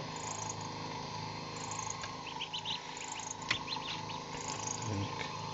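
Steady electric hum of a homemade egg incubator's small 12-volt fan running, with a few light clicks about two and a half and three and a half seconds in.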